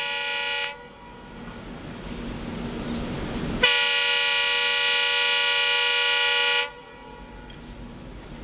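Diesel locomotive horn sounding a short blast, then a long blast of about three seconds that cuts off abruptly, over the rumble of a train approaching at speed that grows louder between the two blasts.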